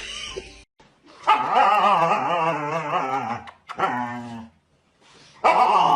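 A dog making long, wavering, whining howls: one long call, a short one, then another long one starting near the end.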